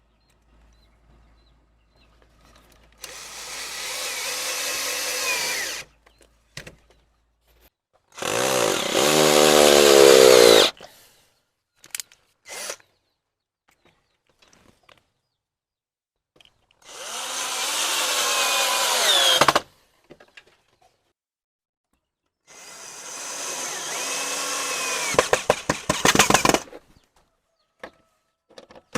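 Power drill running in four separate bursts of a few seconds each, the motor's pitch bending up and down as it works. The last burst ends in a quick run of clicks.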